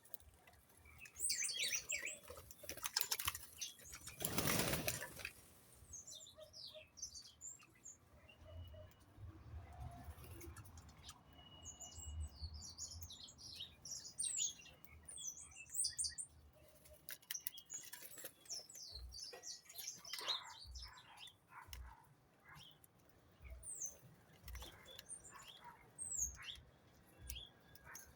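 Small birds chirping in quick short notes, with a loud rush of flapping wings about four seconds in and soft low knocks in the second half.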